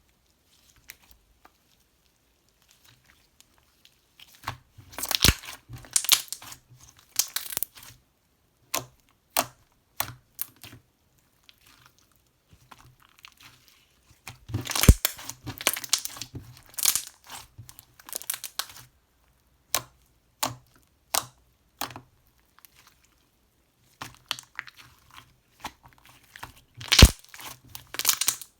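Crinkling and tearing of a thin, crackly material, handled in a small room. It comes in three bursts of rustling with single sharp crackles between them, after a few seconds of near silence.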